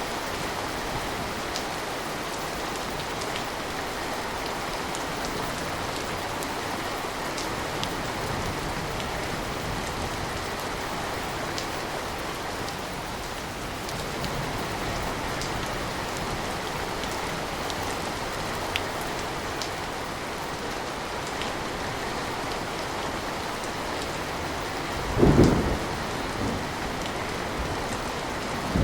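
Steady rain with scattered sharp drop ticks, and a brief loud low burst of thunder about three seconds before the end.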